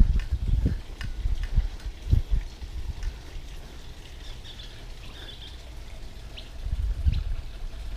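Birds chirping faintly through the middle, over low thumps and rumble at the start and again near the end.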